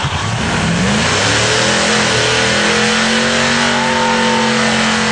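Vehicle engine doing a burnout: it revs up in the first second or so, then is held at high revs with its tyres spinning, under a dense hiss.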